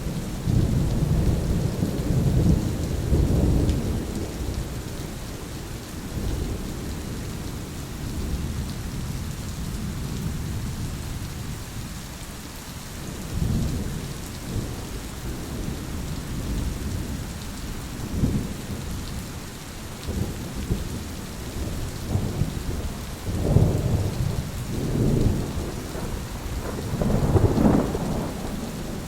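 Thunderstorm: steady heavy rain with rolling thunder, a long rumble over the first few seconds and several shorter rumbles through the rest, the loudest near the end.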